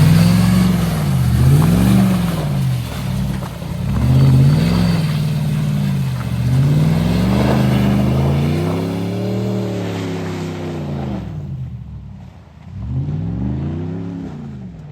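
A vehicle engine revving up and easing off over and over in uneven surges. Near the end it drops off sharply for a moment, then revs again.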